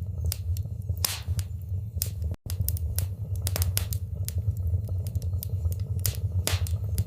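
Wood fire in a fireplace crackling, with sharp pops at irregular intervals over a steady low rumble of the flames. The sound cuts out for an instant about two and a half seconds in.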